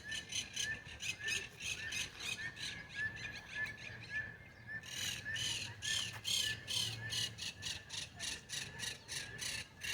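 Birds squawking in a fast, even series of short calls, about three a second, over a steady high-pitched trill.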